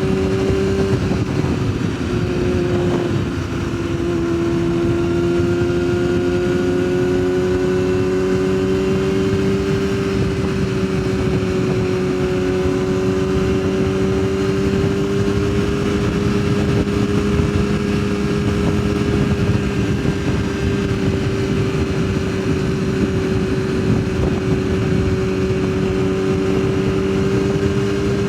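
Yamaha sportbike engine running at a steady cruising speed, its note dipping briefly about three seconds in and then holding nearly level, with wind rushing over the rider's microphone.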